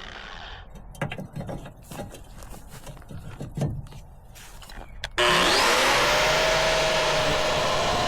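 Metabo 6-inch angle grinder winding down, then a few seconds of knocks and clatter, then the grinder switched on about five seconds in: its whine rises quickly as it spins up and then runs steadily and loudly.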